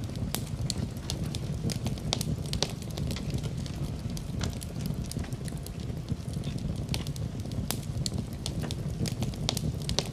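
Wood fire crackling in a fireplace: a steady low rumble of flames with irregular sharp pops and snaps, several a second.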